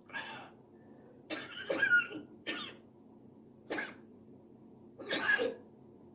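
African grey parrot mimicking a person coughing and clearing the throat: a series of about five short, raspy bursts spread over a few seconds.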